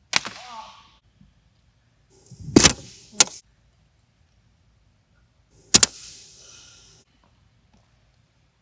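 A few sharp knocks and taps: one right at the start with a brief ringing tail, a heavier thud-and-click pair about two and a half seconds in, and another knock near six seconds followed by about a second of rustle.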